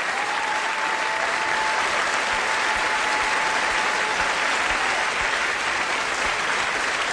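Audience applauding steadily after a live song, with a long thin whistle through the first half.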